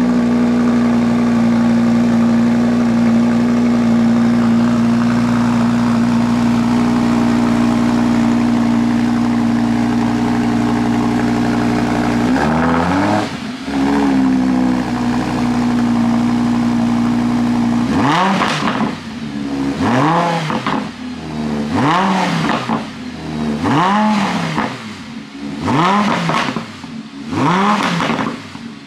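Lamborghini Huracán's 5.2-litre V10 on its original exhaust, running at a steady fast idle, blipped once after about twelve seconds, then revved in a string of short blips, about one every second and a half, over the last ten seconds.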